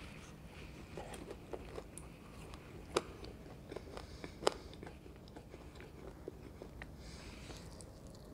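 Close-miked chewing of a crispy gram-flour-battered pakora, with scattered sharp crunches; the two loudest come about three and four and a half seconds in.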